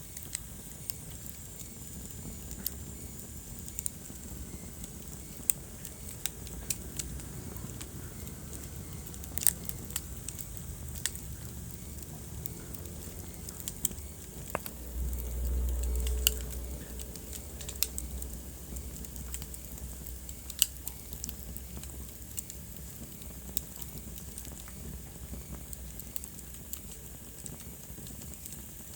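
Wood fire burning in a fireplace: irregular sharp crackles and pops over a steady low rumble of the flames, with the rumble swelling louder about halfway through.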